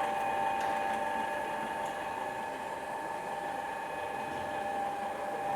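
Vehicle lift's electric motor running steadily with a whine, raising the car.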